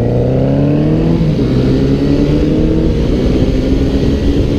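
Motorcycle engine accelerating hard through the gears: its pitch climbs, drops with an upshift about a second in and again about three seconds in, then climbs again.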